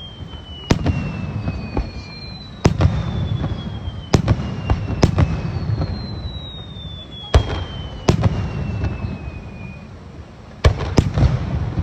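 Aerial fireworks shells bursting over and over, about eight sharp bangs with rumbling echoes between them. Three long whistles slide slowly down in pitch among the bangs.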